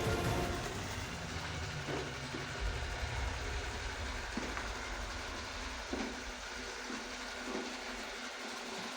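ILIFE V80 Pro robot vacuum running in wet-cleaning mode, a steady mechanical whir with a low rumble that eases about halfway through. A few faint knocks come at intervals.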